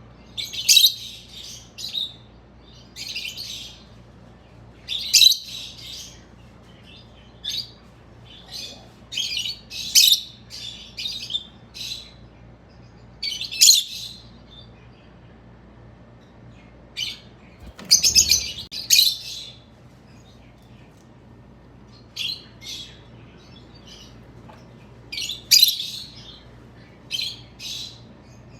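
Rose-ringed parakeet chirping in short, high bursts, coming in irregular clusters with pauses of one to a few seconds between them.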